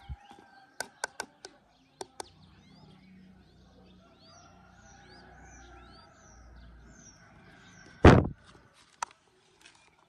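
Short, thin, upward-curving bird chirps repeat about twice a second over a faint low hum. A few sharp clicks come in the first two seconds, and one loud thump lands about eight seconds in.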